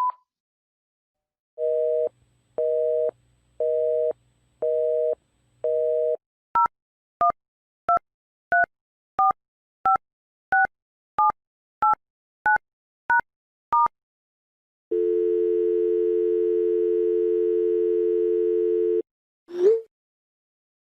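A run of telephone sounds: the end of an answering-machine beep, then a busy signal pulsing five times, about once a second. Twelve quick dual-tone keypad beeps follow as a number is dialled, then a steady dial tone for about four seconds. Near the end comes a short swooping blip.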